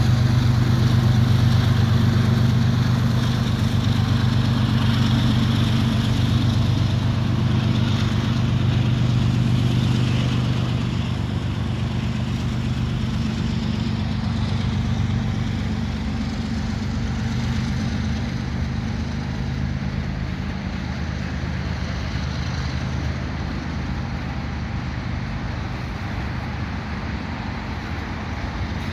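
CN GE diesel-electric freight locomotives, an ET44AC and an ES44AC, drone steadily under load as the freight pulls away. The drone fades over the first fifteen seconds or so and leaves a steadier, quieter rumble of the moving train.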